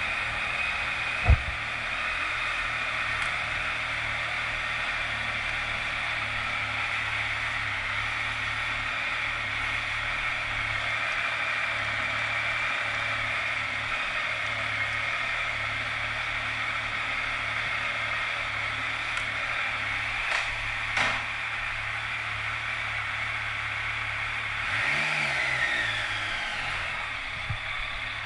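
Yamaha Tracer 900 (FJ-09) inline-three motorcycle engine running steadily just after start-up, with a sharp knock about a second in and a falling engine note near the end.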